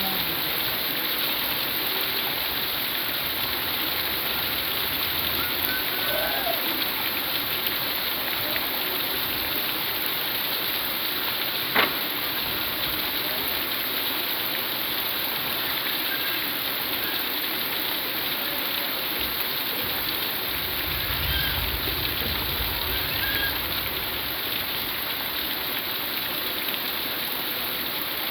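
Heavy rain falling in a steady, even hiss, with one sharp click about twelve seconds in.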